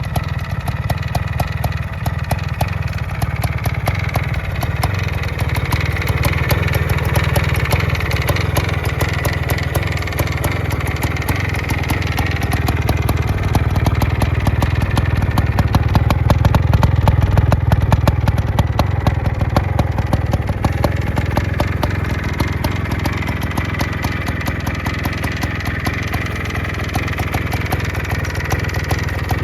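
1980 Montesa Cota 349's single-cylinder two-stroke engine running with a rapid, even firing beat; it gets a little louder about halfway through, then settles back.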